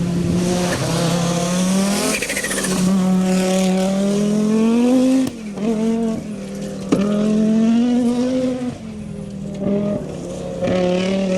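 Rally car engine running at high revs and pulling hard. Its pitch climbs and sags with gear changes and throttle lifts, and the sound breaks off sharply about five and seven seconds in.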